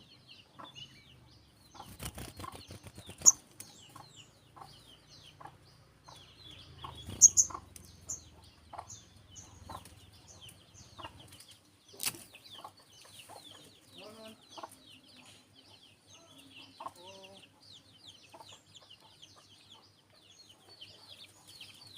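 Small birds chirping rapidly in short, high, downward-sliding notes. There are a few loud sudden rustling bursts about two to three and seven seconds in, and a sharp click about twelve seconds in.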